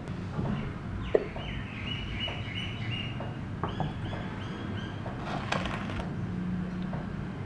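A bird calling in a string of short, repeated high notes, with a sharp click about a second in.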